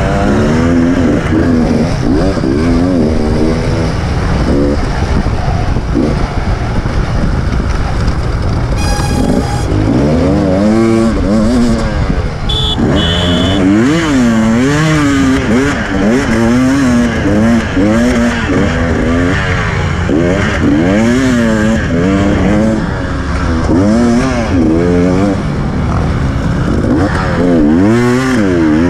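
KTM EXC 300 TPI two-stroke single-cylinder enduro engine under hard riding. Its pitch climbs and drops about once a second as the throttle is worked and gears change.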